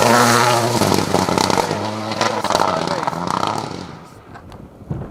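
Rally car's engine revving hard, its pitch rising and dropping with gear changes as the car passes at speed, then fading away about four seconds in.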